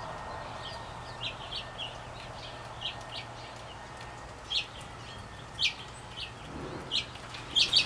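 Small songbirds chirping: short, sharp high chirps scattered through, a few a second, with a quick run of louder chirps near the end.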